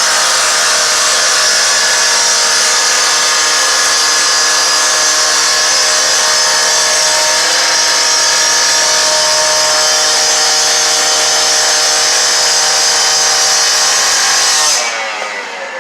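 Power saw cutting into the metal body of a garbage truck, a loud steady whine with a hissing edge that stops abruptly near the end.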